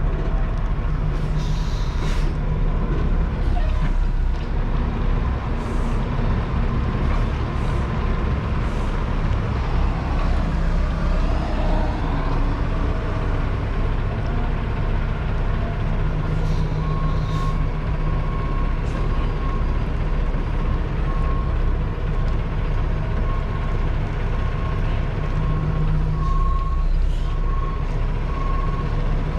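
Peterbilt semi-truck's diesel engine running at low speed while the rig reverses, with a few short hisses early on. About halfway through, a backup alarm starts beeping in a steady, regular pattern.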